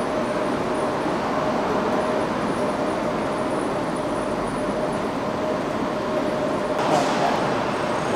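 London Midland Class 172 diesel multiple unit running into the tunnel, its engine and wheels making a steady drone with a steady hum through it. There is a brief sharp clatter near the end.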